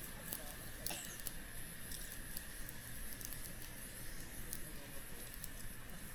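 Wood campfire crackling: scattered sharp pops and ticks, several in the first second or so, over a steady background hiss.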